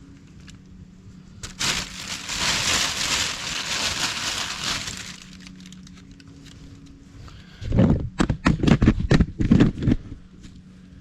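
Rustling and crinkling for about four seconds, as of a packaged part or bag being handled. Then, about two seconds later, a quick run of sharp knocks and clatters from gas-line parts being handled.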